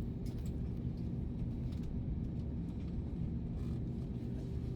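Steady low rumble inside an Airbus A321 cabin before takeoff, with a faint steady hum running through it.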